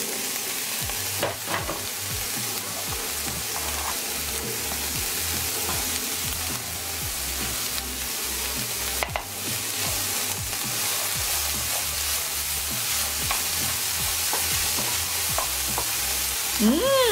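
Chopped onion, spring onion and grated ginger and garlic sizzling in hot oil in a non-stick frying pan, stirred with a wooden spoon that now and then scrapes and taps the pan. The sizzle is a good, steady one.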